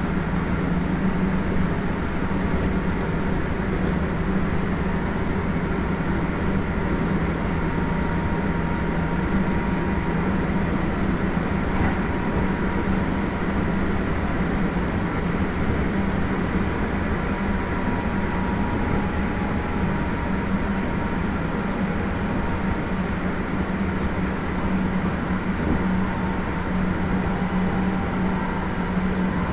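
Kintetsu 1420 series electric train running at a steady speed: a continuous rumble of wheels and rails with a low steady hum and faint steady tones above it from the traction motors and the VVVF inverter, with no clear rise or fall in pitch.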